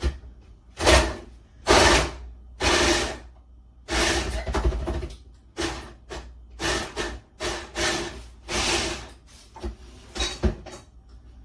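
Food processor pulsed about ten times in short bursts, chopping carrots, its blade and the carrot pieces rattling in the bowl with each pulse.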